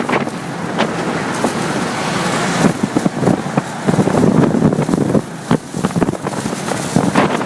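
Motorcycle on the move: wind buffeting the microphone in gusts over steady engine and road noise.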